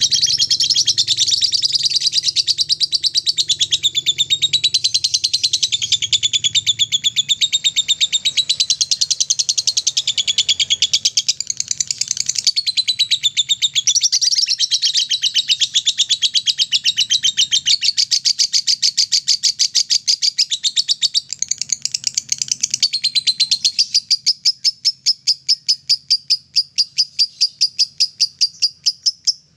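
Lovebird 'ngekek' song: a long, unbroken, rapid chattering trill of high notes. Over the last few seconds the notes spread out and slow before stopping abruptly.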